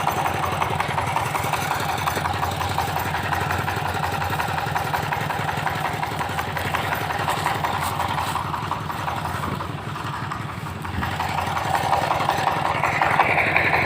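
Engine-driven corn sheller running steadily with a continuous mechanical drone. It dips briefly about ten seconds in, then comes back louder with a higher hiss near the end.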